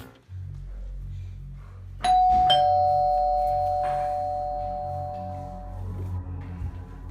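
Two-note ding-dong doorbell chime: a higher note about two seconds in, then a lower note half a second later, both ringing out and slowly fading, over quiet low background music.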